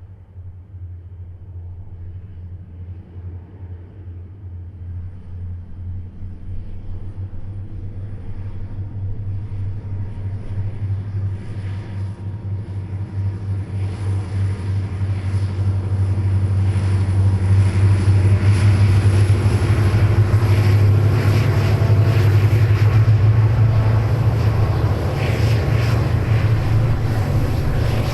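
EMD diesel locomotives pulling a train under throttle, their engines growing steadily louder as they approach and then holding loud and close.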